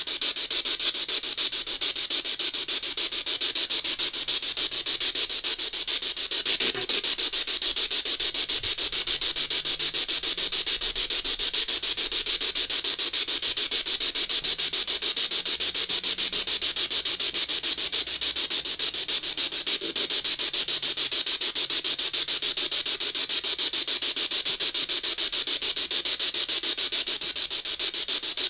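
Spirit box sweeping through radio stations: continuous choppy static made of very fast pulses, with one short click about seven seconds in.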